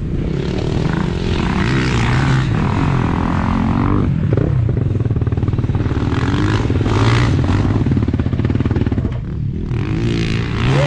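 Dirt bike engine running and revving, its pitch rising and falling.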